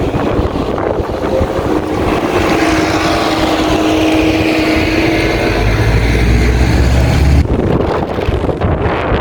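Wind buffeting the microphone, with a steady engine hum that deepens into a heavy low rumble. The rumble cuts off suddenly about seven seconds in.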